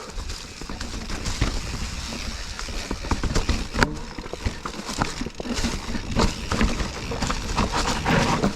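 Specialized FSR full-suspension mountain bike riding fast over rocky trail: tyres rolling and crunching over rock under a steady rush of noise, with frequent irregular clacks and rattles from the bike and its chain as it hits rocks.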